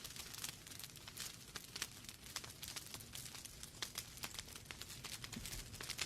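Wood logs burning in a fireplace, crackling with many irregular small pops and snaps over a soft hiss, with a sharper pop near the end.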